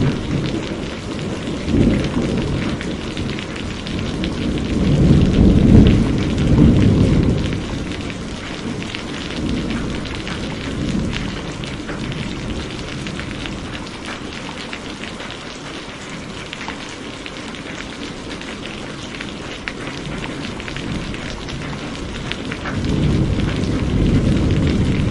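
Steady heavy rain falling, with rolling thunder rumbling in low swells, loudest about five to seven seconds in and again near the end.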